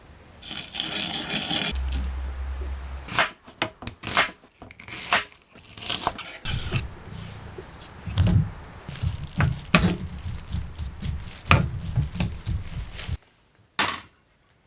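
Cooking utensils scraping and knocking against cookware during cooking: an irregular run of scrapes, rubs and sharp knocks, with a short break near the end.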